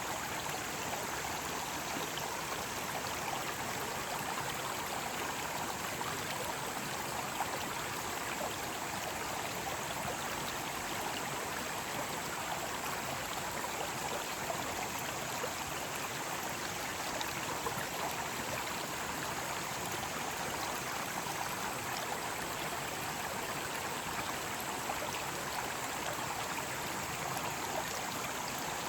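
Mountain stream rushing steadily over rocks, an even, unbroken wash of water noise.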